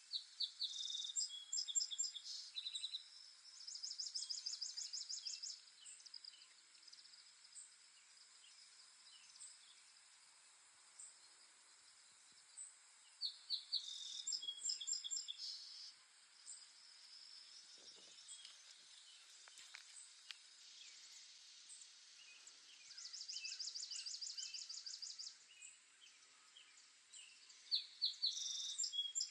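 Songbirds singing: a high song phrase of quick notes running into a fast trill, repeated about four times with pauses of several seconds between, over a faint steady hiss.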